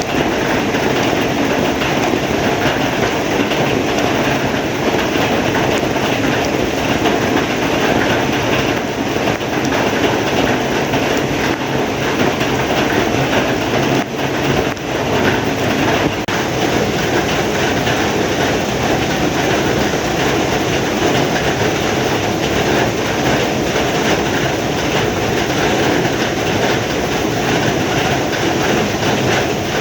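Heavy rain falling steadily, a dense unbroken hiss and patter with a brief lull about halfway through.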